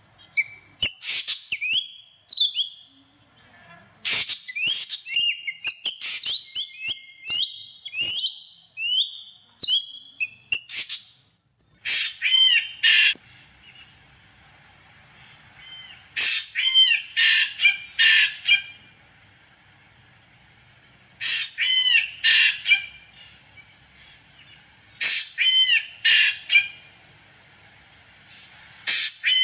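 Songbird singing: a quick run of varied whistled and chirping notes, then from about twelve seconds in, short bursts of repeated chirps about every four to five seconds.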